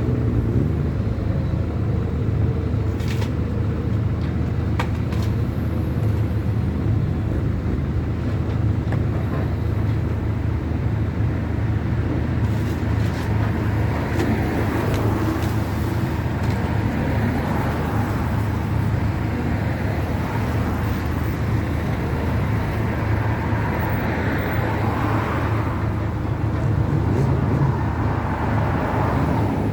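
A large engine running steadily at a low, even pitch, with two sharp clanks a few seconds in. A rushing noise swells and fades through the second half.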